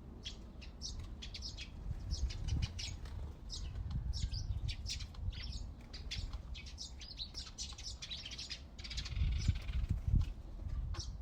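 Several backyard birds chirping and singing in quick, short high notes, with a low rumble underneath that gets louder near the end.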